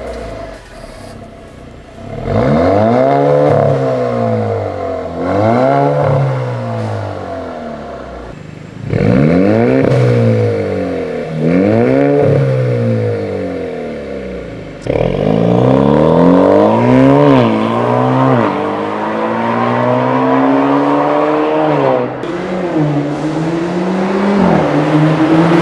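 Alfa Romeo Stelvio with an RES valved stainless-steel catback exhaust, the engine revved up and let fall again about half a dozen times, then a longer climb in revs and a drop near the end.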